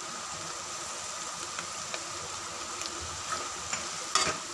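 Onion and tomato masala sizzling steadily in oil in a pan while a spatula stirs it, with a few light ticks and a sharper scrape about four seconds in.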